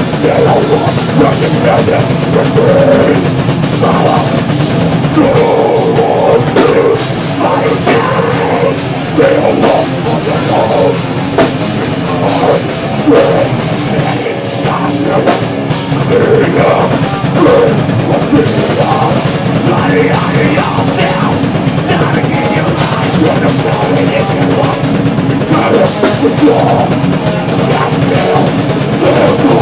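Live thrash/death metal band playing an instrumental passage: distorted guitars, bass and pounding drum kit, loud and unbroken.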